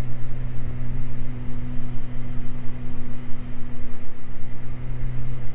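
Steady drone of a Beechcraft G58 Baron's twin piston engines and propellers in flight, heard from the cockpit.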